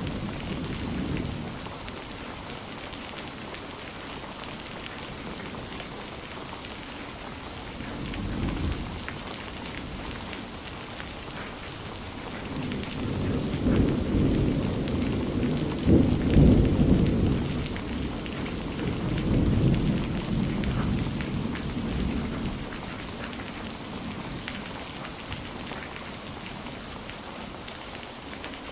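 Steady rain falling with rolls of thunder: a short rumble fading at the start, a brief one about eight seconds in, and a long rolling peal in the middle, loudest about halfway through, before only the rain hiss remains.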